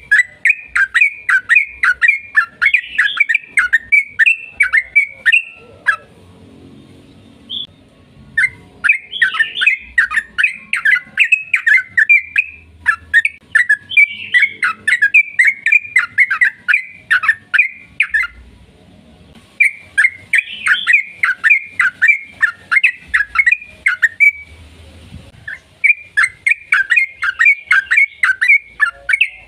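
Yellow-vented bulbul (trucukan) singing a long, rapid song: runs of quick, loud, repeated chattering notes, about four or five a second. There are three short breaks, a few seconds in, past the middle and near the end.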